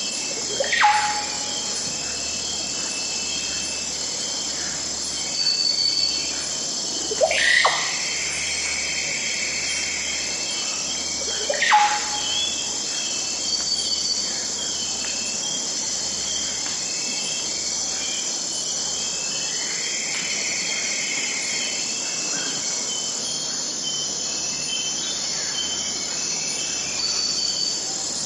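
Amazon rainforest ambience: a dense, steady insect chorus of high buzzing and trilling. Three loud sweeping bird calls cut through in the first half, each rising sharply and falling away.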